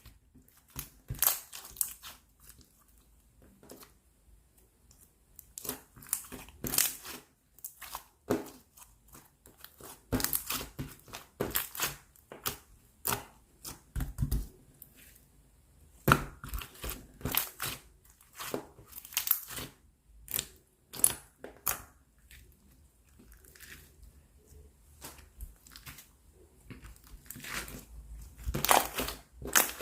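Clear slime being worked by hand: irregular bursts of sticky clicks and pops, with short quiet gaps between handfuls.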